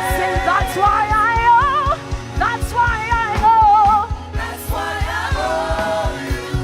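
Live worship music: a singer's melodic vocal line with vibrato over sustained chords and a steady low beat.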